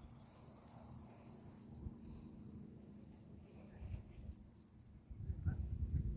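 A small songbird singing a short, high, rapid trill of several quick notes, repeated five times about every second and a half.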